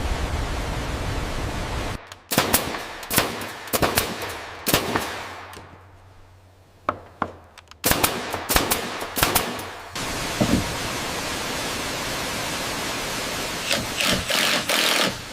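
Steady rushing noise of falling water cuts out about two seconds in, giving way to a run of sharp, irregularly spaced knocks for several seconds. The rushing returns, with a few more knocks near the end.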